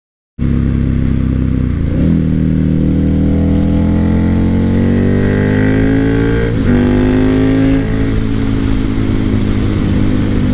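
Motorcycle engine accelerating hard through the gears, the pitch climbing and dropping back at two upshifts about 2 and 6.5 seconds in, then easing and holding steady. Wind rushes over the microphone throughout.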